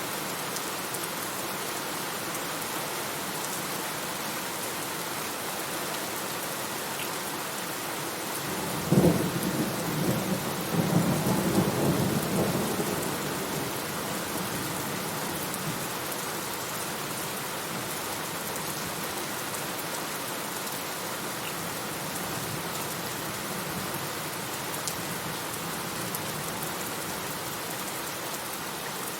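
Steady rain falling, with one thunderclap about a third of the way in: a sharp crack that rolls into a low rumble for a few seconds and fades back under the rain.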